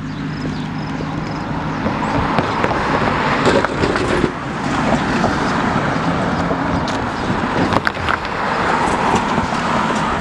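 Road traffic going by: a steady rush of vehicle and tyre noise.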